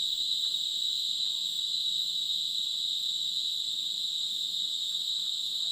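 A chorus of insects trilling steadily in one high, unbroken note.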